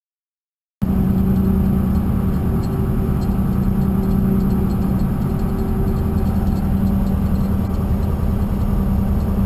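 An engine running steadily at a constant speed, with a strong low hum; it cuts in suddenly about a second in.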